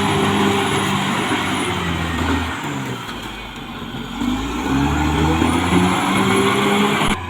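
Caterpillar D6R XL bulldozer's diesel engine working under load. Its pitch sags about three seconds in, then climbs again a second later, and the sound cuts off abruptly near the end.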